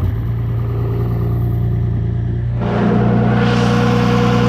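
Cummins 12-valve inline-six diesel running steadily just after starting, growing louder and harsher about two-thirds of the way in as it is given more fuel.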